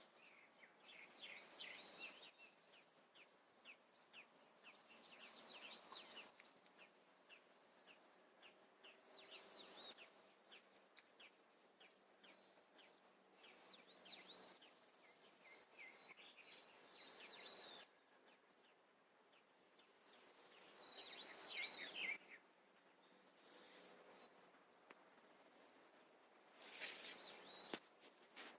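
Faint small birds chirping, many short high calls in quick runs, with a louder burst of calls about three-quarters of the way through and again near the end.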